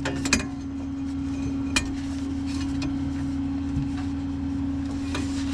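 A vehicle engine idling with a steady hum, with a few short metallic clicks and clinks over it.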